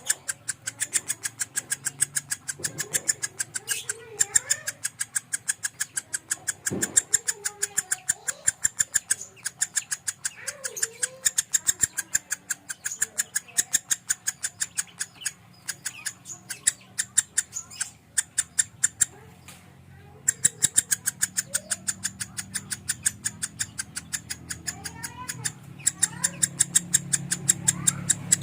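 Lovebird with a konslet song, chirping in a fast, even string of short, sharp notes, about five a second, kept up without a break. A low steady hum rises under it near the end.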